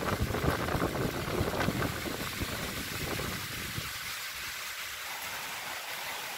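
Strong gusting wind rushing past and buffeting the microphone, with no rain. The gusts are heavier in the first three seconds or so and ease a little after that.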